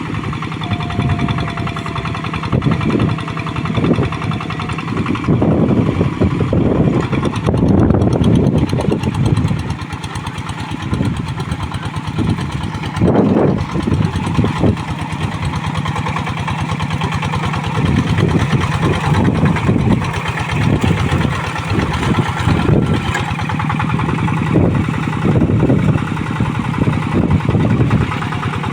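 Two-wheel hand tractor's single-cylinder diesel engine running hard under load while ploughing soft, deep paddy mud, its note swelling and easing repeatedly as the load changes.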